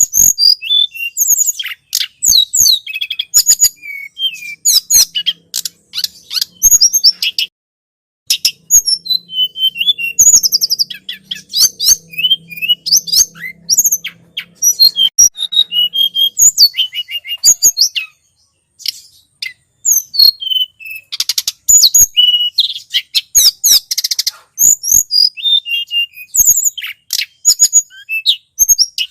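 Recorded song of the tledekan gunung, a small songbird used in Indonesian bird-luring: rapid, high-pitched chirps and trills in busy bursts, with two brief pauses.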